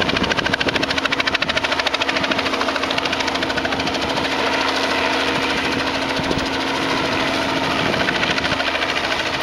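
Helicopter hovering low overhead, its main rotor chopping in a rapid, even beat over a steady engine hum.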